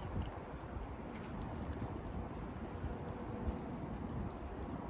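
Faint scattered clicks and light rustling of copper winding wire being handled and pulled from a refrigerator compressor motor's stator, over a steady low background rumble.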